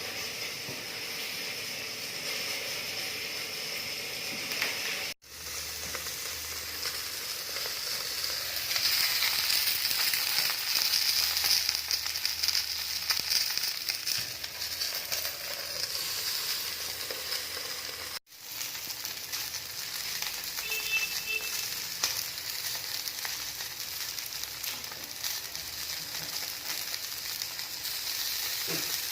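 Food sizzling and crackling as it fries, louder for a stretch in the middle. The sound drops out abruptly twice for a moment.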